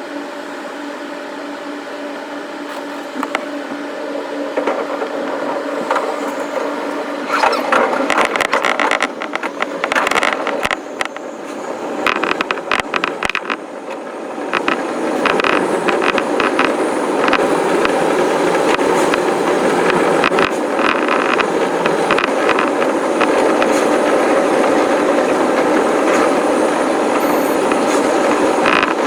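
Electric commuter train running on the line, heard from the cab: a steady hum with a held tone at first, then a quick run of clicks from the wheels over rail joints from about seven seconds in, and louder rolling noise from about halfway through.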